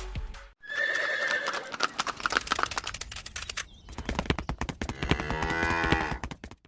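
A horse neighing, with hooves clip-clopping throughout, and a longer wavering whinny near the end.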